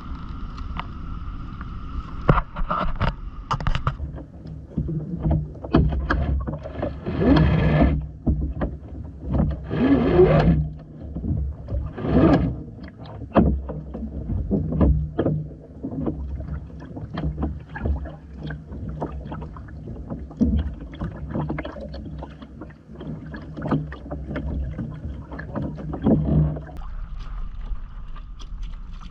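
Sounds aboard a Hobie Island sailing kayak under way: water washing against the hull, with frequent knocks and clicks. Underneath runs a steady low hum that stops near the end.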